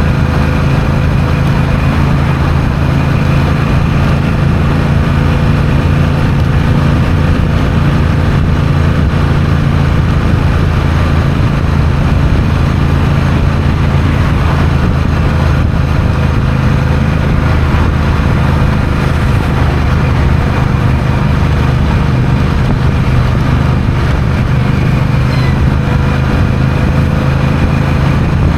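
Honda CMX1100 Rebel's parallel-twin engine running at a steady speed while the bike is ridden, with a low, even engine note and a rush of wind and road noise over it.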